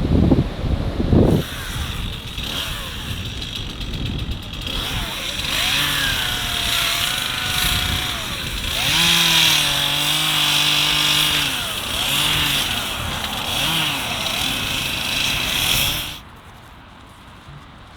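An engine running and revving up and down, its pitch rising and falling and holding steady for a couple of seconds near the middle; it cuts off abruptly near the end. Wind buffets the microphone at the start.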